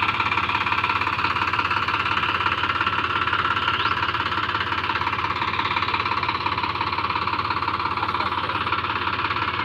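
Tractor diesel engine running steadily under load, with a fast, dense knocking pulse.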